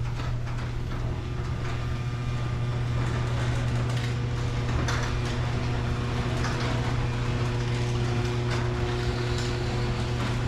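A steady low mechanical hum with an even rushing hiss and a few light knocks.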